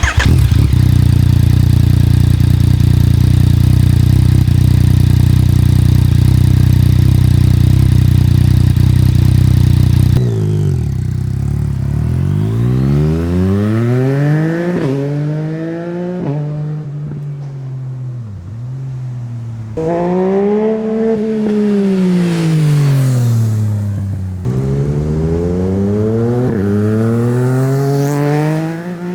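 Yamaha MT-09's three-cylinder engine through an Akrapovic racing exhaust, very loud. For about the first ten seconds it holds a steady drone. After that the revs climb and fall again and again, with several quick drops in pitch.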